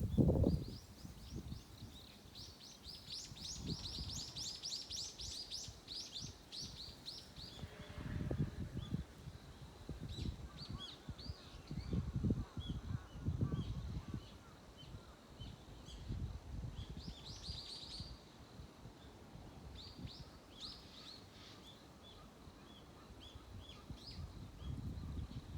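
Small birds chirping in a dawn chorus: a fast run of high twittering chirps early on, then scattered short calls from several birds. A low rumble swells and fades a few times underneath.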